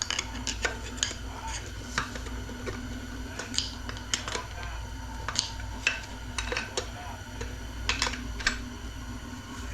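Metal parts of a 4L60 automatic transmission clinking and clattering as they are handled during teardown: a string of irregular sharp clicks and clinks over a steady low hum.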